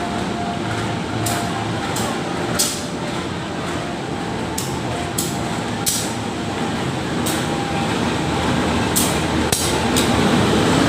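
A passenger train set rolling slowly during shunting: a steady rumble with irregular sharp clanks from the wheels and couplings, growing louder toward the end as it comes closer.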